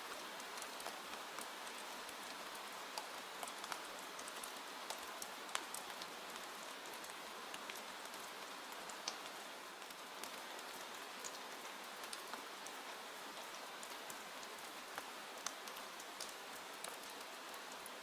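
Steady rain: an even hiss with many sharp little drop ticks scattered through it.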